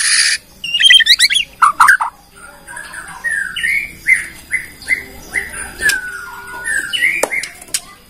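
Bornean white-rumped shama singing: a loud harsh rasp at the start, then a varied run of whistled phrases, including a series of about six short down-slurred whistles and a long gliding whistle.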